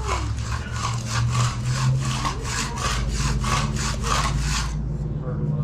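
A hand finishing tool scraped back and forth over fresh concrete in even strokes, about two a second, stopping near the end, over a steady low engine hum.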